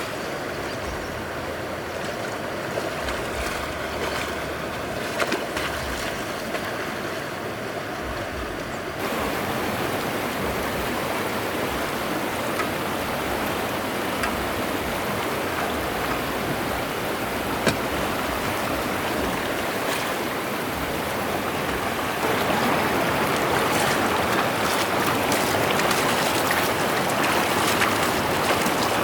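Flowing water: a steady rushing that steps up in loudness about nine seconds in and again near the end.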